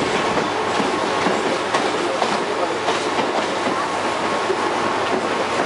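An Indian Railways train running along the track: a steady rumbling noise with a series of faint clicks, roughly every half second to second, as the wheels pass over rail joints.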